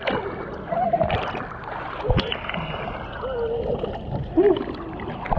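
Boat under way on the water: a steady rushing of engine and water noise, with faint voice fragments and a couple of brief knocks.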